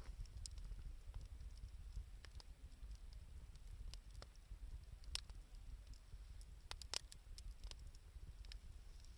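Wood fire of scrap 2×4 lumber and scavenged wood crackling faintly, with scattered sharp pops at irregular intervals over a low steady rumble.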